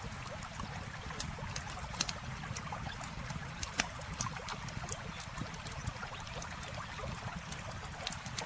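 Wood campfire crackling with frequent sharp, irregular pops, over a steady rush of flowing river water.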